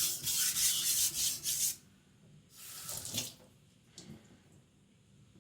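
A steel chopper blade scraped back and forth in quick, broad strokes across a wet whetstone to even out the edge, stopping about two seconds in. A softer swish follows about a second later, then a single light click.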